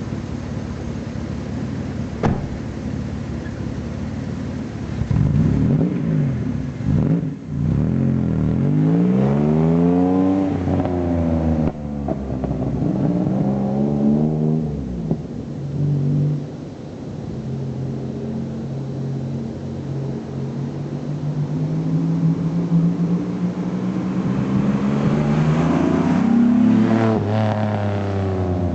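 V6 engine in a Mazda MX-5 running through a muffler-deleted exhaust: idling, then revved up and let fall back several times, then a long slow climb in revs near the end before dropping back to idle.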